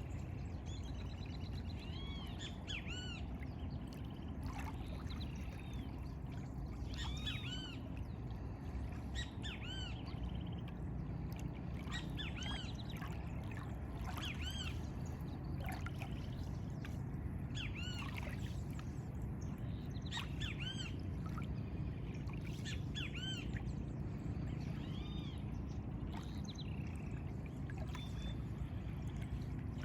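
Birds calling over and over, short arched cawing calls every second or two, over a steady low rush of lagoon water.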